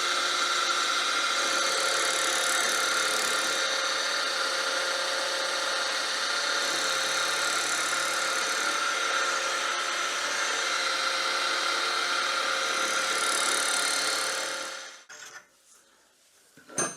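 Small lathe running steadily while the ball turning jig's cutter nibbles away the wooden stalk at the ball's base; it stops near the end.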